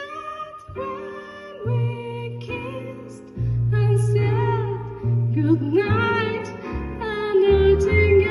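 Jazz ensemble with a female singer performing a slow ballad: long held vocal notes with vibrato over sustained bass notes, with a few light cymbal strokes.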